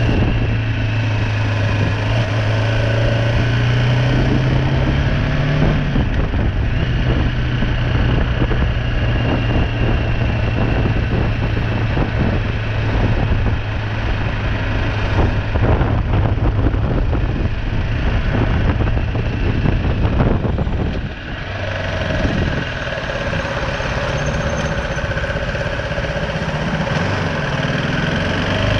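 BMW G310R motorcycle's single-cylinder engine running under way, with wind noise over it. The engine note holds steady for most of the time, drops away briefly about three quarters of the way through, then climbs again as the bike accelerates near the end.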